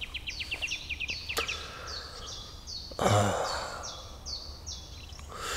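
Songbird singing at dawn: a quick trill, then a long string of repeated high notes, each stepping down in pitch, about two a second. About three seconds in, a person breathes out in a long sigh.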